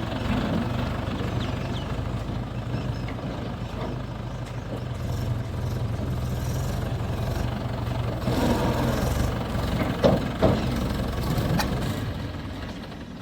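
Mahindra 275 DI XP Plus tractor's three-cylinder diesel engine running steadily at a low, even speed. Two sharp knocks come about ten seconds in, and the sound fades near the end.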